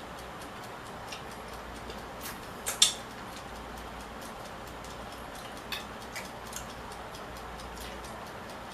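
Quiet eating: a handful of sharp clicks and taps of cutlery and shells against a plate, the loudest pair about three seconds in and a few more around six seconds, over a faint, regular ticking and steady hiss.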